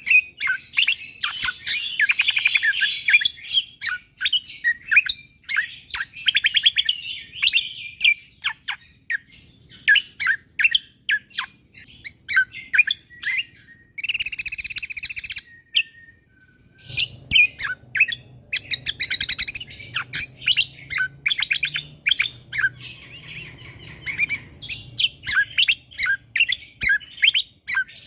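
Cucak kombo (kecial kombo) songbird singing in rapid-fire strings of short, sharp chirps, with a harsh buzzy call about halfway through.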